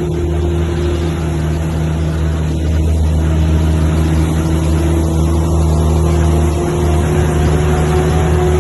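Heavy diesel truck engine running steadily under load, pulling uphill, with a deep, even hum; it grows a little louder about three seconds in.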